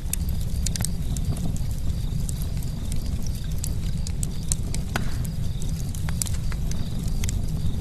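Campfire crackling: a steady low rumble of burning wood with frequent sharp, irregular pops and snaps, and one bigger snap about five seconds in.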